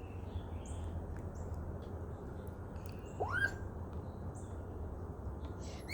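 Birds calling: scattered short, high chirps, and one rising whistled note about three seconds in, over a steady low background hum.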